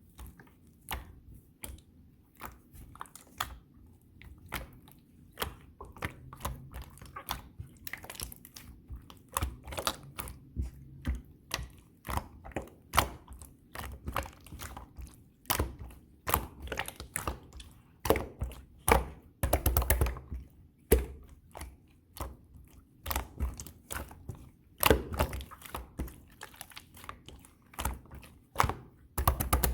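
Blue clear slime being squeezed and worked by hand, giving a string of irregular sharp sticky clicks and pops, a few each second, growing louder and busier from about eight seconds in.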